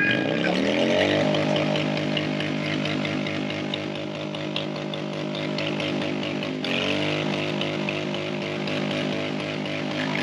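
Motorcycle engine revved hard and held at high revs during a burnout. The revs dip briefly about two-thirds of the way through and climb straight back up.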